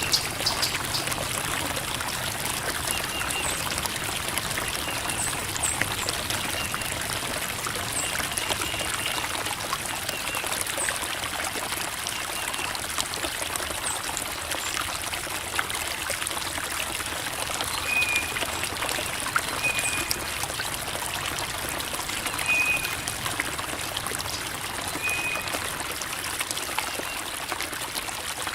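A creek babbling and trickling over rocks: a steady splashing of running water, with a few faint short high chirps now and then.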